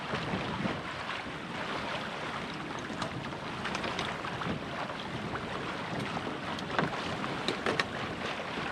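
Wind buffeting the microphone over the rush of water around a sailboat under way, with a few sharp knocks near the end.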